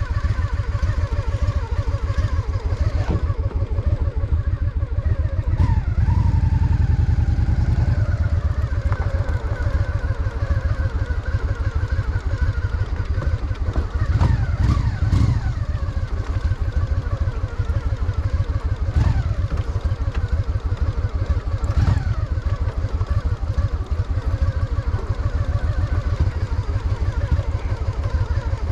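Honda Shadow VT750's V-twin engine running as the motorcycle is ridden through city traffic, a steady rapid beat of firing pulses. It pulls harder for a couple of seconds about six seconds in and again around fourteen seconds, with a few short clicks.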